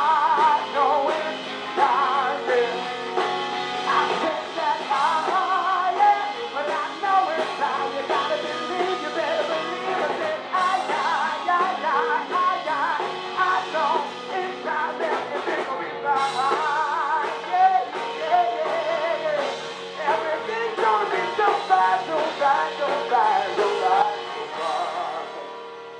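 Live soul band playing a song on stage, full band with guitar and drums, the music dying away near the end.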